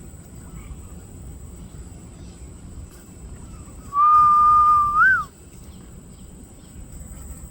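A single loud whistled note about four seconds in, held level for about a second, then flicking up and falling away.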